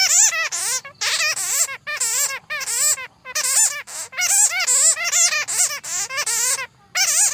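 Bats chattering: bursts of rapid, wavering high squeaks, each run lasting about half a second to a second, with short gaps between.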